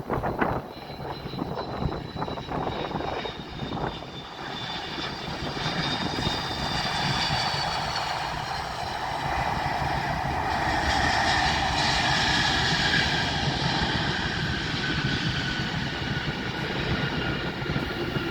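Turbofan engines of a jet airliner on landing approach: a whine and rumble that grow louder from about five seconds in, are loudest around the middle, and then slowly fall in pitch as the aircraft passes.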